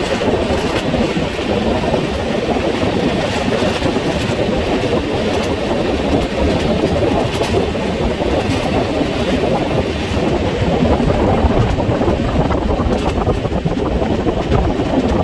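Passenger express train running at speed, with steady rolling noise and wheels clattering over the rail joints. The audio is played at twice normal speed.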